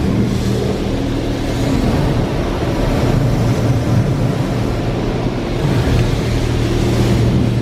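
PDQ LaserWash touchless automatic car wash running: a steady hiss of high-pressure water spray over a low, steady machine hum.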